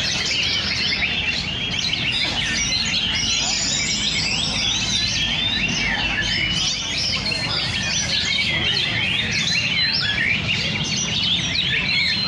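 Oriental magpie-robins singing without a break, several songs overlapping in a dense, fast-changing stream of high whistles and chirps, over a low rumble of background noise.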